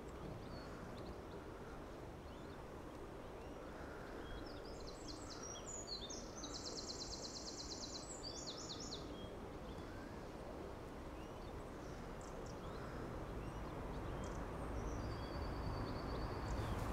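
Quiet outdoor ambience with a steady low rumble, and a songbird singing a quick high trilling phrase about five seconds in, with a shorter high call near the end.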